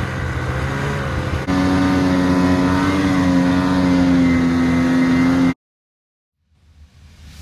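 Snowmobile engine running under way, steady, then pulling harder about a second and a half in. It cuts off suddenly about five and a half seconds in.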